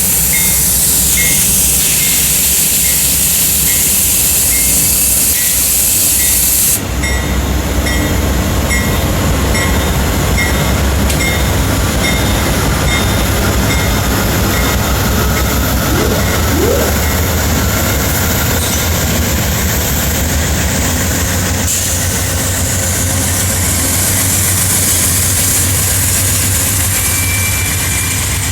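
A train running through a rail yard with a steady heavy rumble, and an evenly repeated ringing tone about twice a second. The sound changes abruptly twice, as the footage cuts between scenes.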